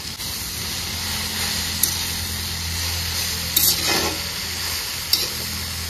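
Saag (leafy greens) sizzling in a kadhai over a wood fire, stirred with a few short clinks against the pan. A steady low hum runs underneath.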